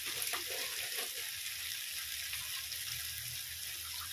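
Vegetable masala of potatoes, peas and capsicum sizzling steadily in oil in a kadhai over a gas flame.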